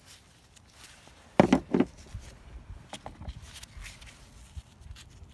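Rocks being handled: a quick cluster of sharp knocks about a second and a half in, then scattered lighter clicks and rustles.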